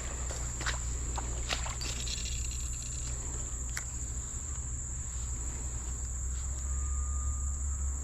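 Steady high-pitched drone of insects, crickets or cicadas, under a low steady rumble, with a few sharp clicks in the first couple of seconds.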